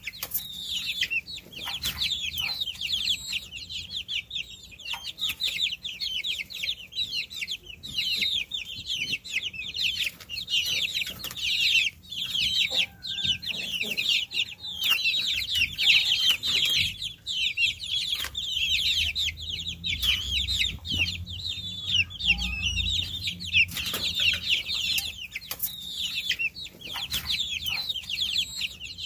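A brood of baby chicks peeping: many high-pitched chirps that overlap continuously.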